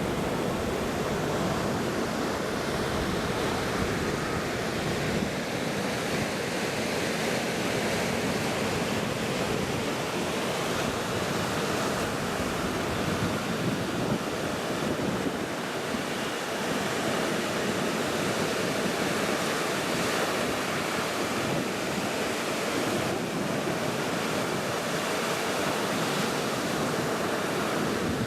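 Small Caribbean surf waves washing onto a sandy beach, a steady rushing wash that swells and eases gently, with some wind on the microphone.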